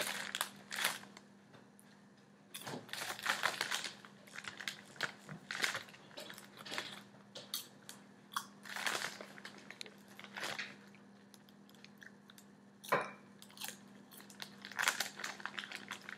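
A person chewing mouthfuls of crunchy white cheddar popcorn, in irregular bursts of crunching with short pauses between, with some crinkling of the plastic snack bag near the start. A steady low hum runs underneath.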